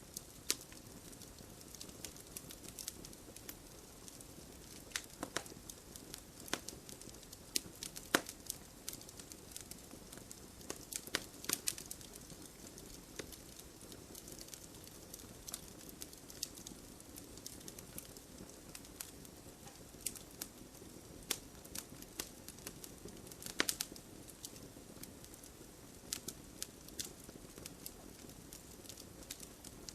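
Campfire burning: irregular sharp crackles and pops of the wood over a steady low hiss of the flames, with a few louder pops standing out.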